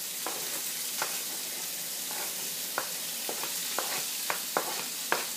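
Chopped onion, bell pepper and celery sizzling as they land in hot oil and browned sausage in a cast iron Dutch oven, scraped in off a cutting board with a wooden spoon. A steady frying hiss, with sharp knocks of the spoon that come more often in the second half.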